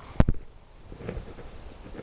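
Two sharp knocks in quick succession about a quarter second in, close and loud, followed by a few faint ticks.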